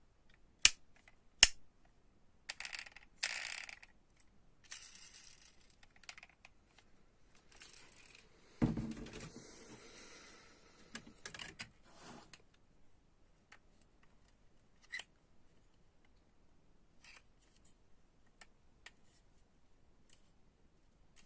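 Handling of toy car packaging: two sharp clicks, then bouts of crinkly rustling and a dull thump about nine seconds in, followed by a few faint ticks.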